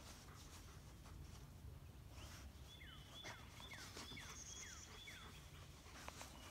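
Near-silent outdoor ambience with a low rumble. A bird calls a quick series of about six short falling notes, starting about two seconds in, and there are a few faint scuffs.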